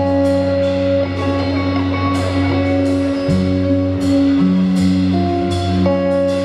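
Live rock band playing: sustained electric guitar and bass chords changing about once a second, with cymbal hits on top.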